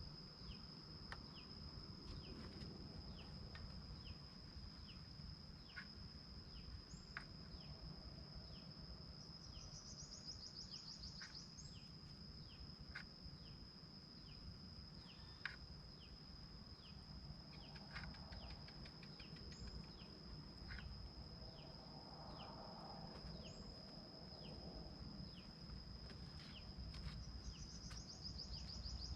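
Faint rural ambience: a steady high-pitched insect drone, with short chirps about once a second and two brief rising trills, one near the middle and one at the end. Faint, rougher bird calls come in during the second half.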